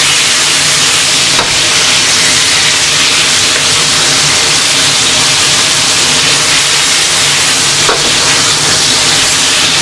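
Whole green chili peppers frying in hot oil in a wok: a loud, steady sizzle while they are stirred and tossed with a spatula.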